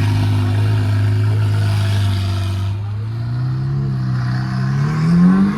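A car's engine running at a steady low note, then rising in pitch over the last two or three seconds as it accelerates away.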